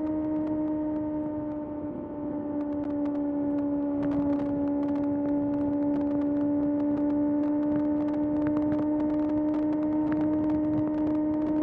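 Kawasaki ZX-6R's inline-four engine running at steady high revs under way, its pitch and volume dipping briefly about two seconds in and then holding steady.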